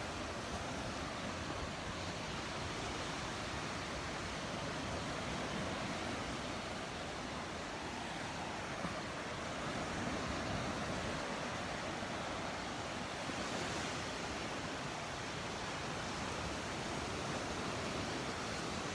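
Ocean surf washing onto the beach: a steady, even rush of waves.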